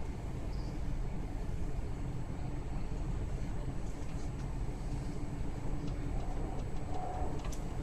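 Steady rumble of a commuter train running between stations, heard from inside the carriage, with a few faint clicks and rattles.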